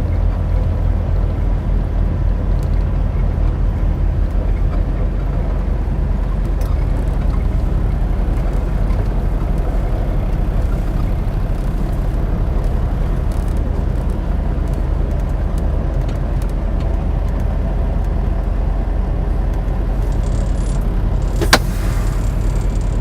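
Semi truck's diesel engine running steadily with an even low hum, with one sharp click near the end.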